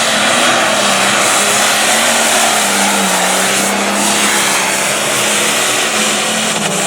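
Light limited pro stock pulling tractor's turbocharged diesel engine running at full throttle under load as it pulls the sled, a loud steady roar whose pitch sags a little partway through.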